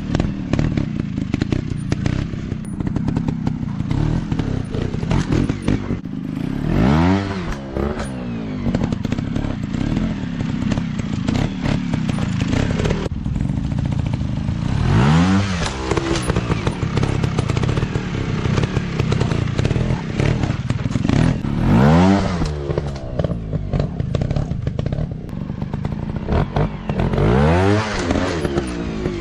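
Off-road dirt bike engine running hard, revved up four times in quick surges, each rising sharply in pitch and falling back, with a rough rattling note between the revs.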